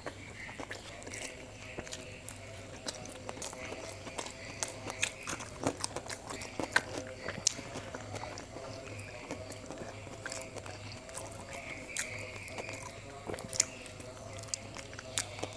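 Close-up chewing and wet, smacking mouth sounds of a person eating rice and fish by hand, with irregular sharp clicks throughout. A faint steady hum runs underneath.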